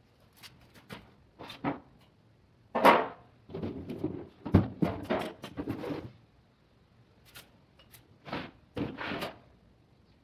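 Irregular knocks, clicks and scrapes of objects being handled and set down, in short clusters with quiet gaps between; the loudest knocks come about three seconds in and again midway.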